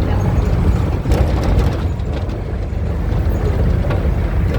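Diesel engine of a Volkswagen 17-230 OD city bus running, heard from inside the bus: a steady low rumble with a few brief rattles.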